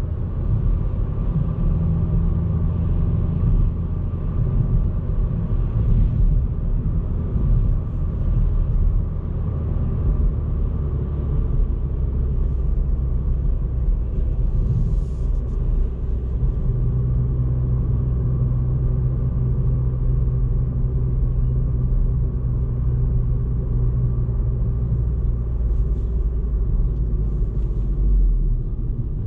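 Ford Fiesta ST Mk8's 1.5-litre turbocharged three-cylinder engine running under light load while the car cruises, with a steady low drone and tyre noise. The engine note holds and shifts pitch a few times, around 2, 10, 16 and 28 seconds in.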